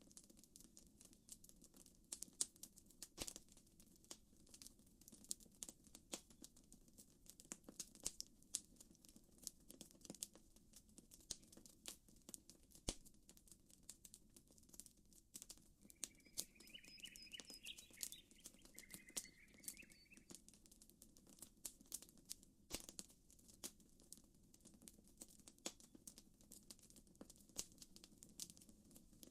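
Campfire crackling softly, with many irregular sharp pops and snaps over a faint low rush. Around the middle a bird calls twice briefly.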